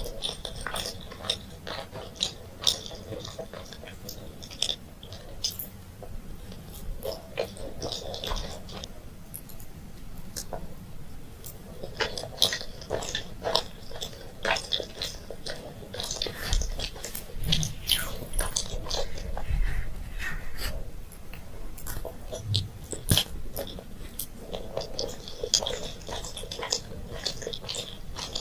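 Close-miked chewing and biting of candy: a steady run of wet mouth sounds and many sharp clicks, busier in a few stretches.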